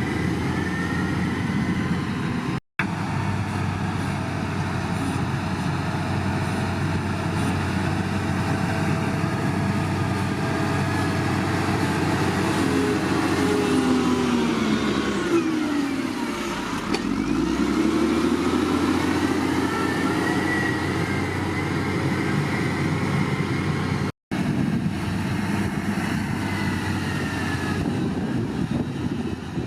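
Shantui bulldozer's heavy diesel engine running steadily, with its pitch sagging about midway and then climbing back. The sound cuts out twice for an instant.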